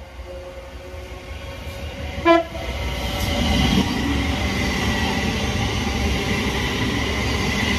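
Electric passenger train: one short, loud horn toot a little over two seconds in, then its running noise builds and holds steady with a thin high whine.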